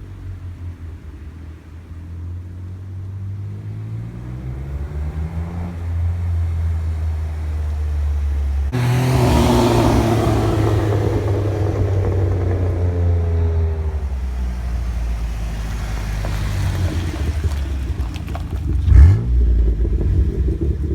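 2010 Jeep Wrangler JK's 3.8-litre V6 running through a Gibson stainless split exhaust, its deep drone rising and falling in pitch. A rushing noise swells in about nine seconds in and fades out after about five seconds, and a single loud thump comes near the end.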